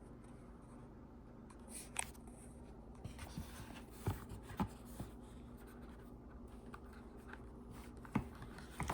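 Faint handling of a product box and its packaging: soft rustling with scattered small clicks and taps, the sharpest about 2, 4 and 8 seconds in.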